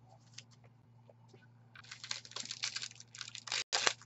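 Rustling and scraping as trading cards and their packaging are handled. It is quiet at first, then a dense run of sliding and crinkling starts about halfway in.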